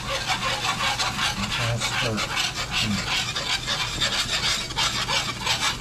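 Wire whisk scraping rapidly and rhythmically across the bottom of a pan, whisking a flour-and-drippings roux with beef broth into gravy as it begins to thicken.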